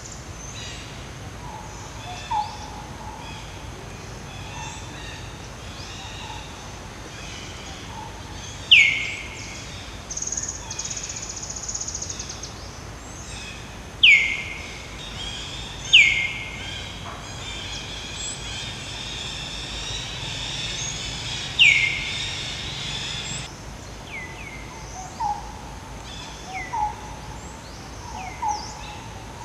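Birds calling in the forest: four loud, sharp calls that sweep downward in pitch, a short buzzy trill, and a run of short low hooting notes near the end, over a steady background of chirps.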